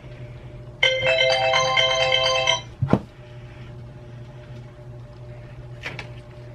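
A short electronic jingle of several notes plays for about two seconds, starting about a second in, followed by a single sharp knock; a steady low hum runs underneath.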